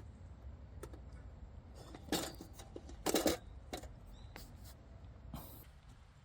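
Handling clatter at a campsite: scattered light clicks and knocks, with two louder short rustling clatters about two and three seconds in, over a low steady rumble.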